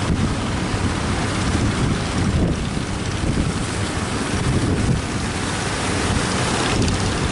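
Strong wind buffeting the microphone over heaving sea and surf, with a boat engine running underneath. The noise is loud and steady throughout.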